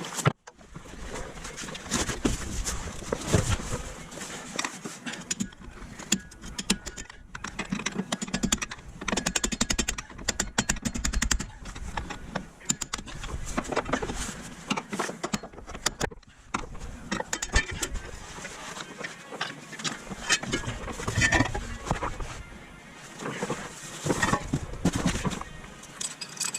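Workshop clatter: metal tools and parts clinking and knocking irregularly, with two brief sudden breaks.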